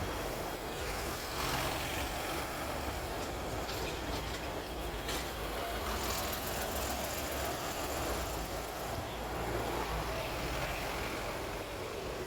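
Hong Kong electric tram running along its rails: a steady rumble with a few short clicks and rattles.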